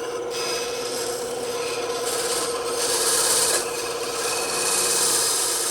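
Bandsaw running with a steady hum while its blade cuts through wood, the hiss of the cut growing louder twice as the piece is fed into the blade.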